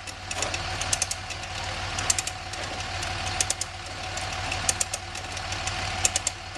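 Come-along hand winch being ratcheted, its pawl clicking in short bursts about every second and a half as the handle is worked to pull the motorcycle up the ramp. A steady low hum runs underneath.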